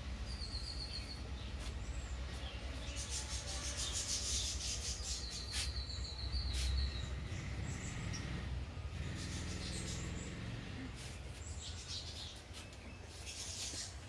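Small birds chirping, with two short, quick high trills. Rustling and clicks are heard over a steady low rumble.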